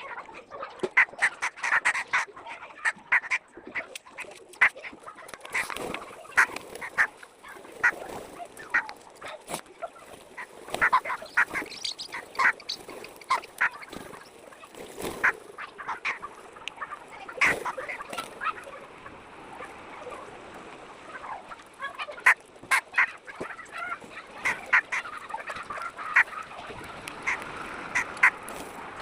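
A flock of birds calling, with many short, sharp calls overlapping one another.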